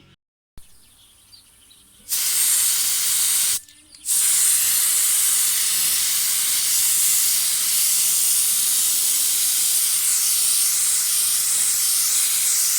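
Compressed air hissing through a K-3 mini spray gun as the trigger is pulled: a short burst about two seconds in, a brief stop, then a long steady blast. The gun has just been refitted with new O-rings.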